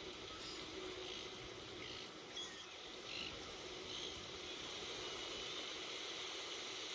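Steady hiss of beach surf with a few short, high bird chirps in the first four seconds.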